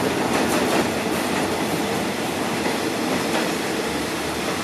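Passenger coaches of a train rolling past on the track: a steady rumble of steel wheels on rail, with scattered clicks as the wheels cross rail joints.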